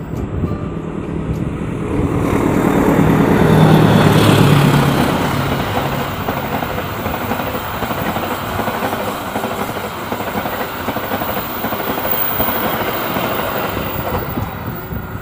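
Passenger train hauled by a diesel locomotive passing close by. The locomotive's engine swells to its loudest about four seconds in as it goes past, then the carriages follow with a steady rush of wheels on rails that eases off near the end.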